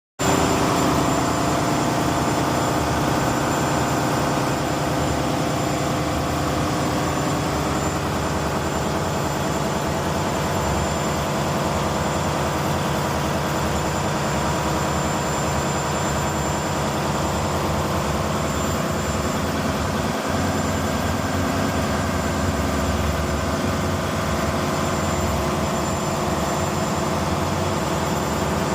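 Ship's engine-room machinery running steadily: a loud, even mechanical din with several constant tones over a low hum.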